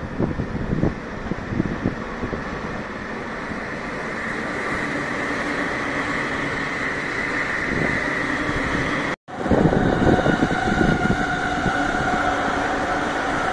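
JR electric commuter trains running past on a multi-track line: a steady, slowly building rumble with a held high tone. Wind buffets the microphone near the start and again after a sudden cut about nine seconds in.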